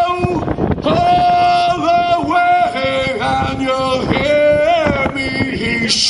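Men's voices singing a sea shanty together, a slow melody of long held notes, each lasting about half a second to a second.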